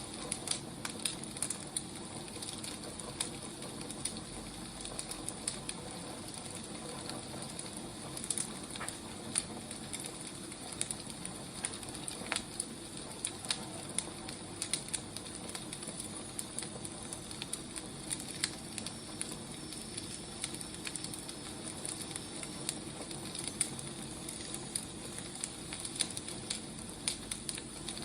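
Wood fire crackling: a steady soft hiss with frequent, irregular sharp pops and snaps.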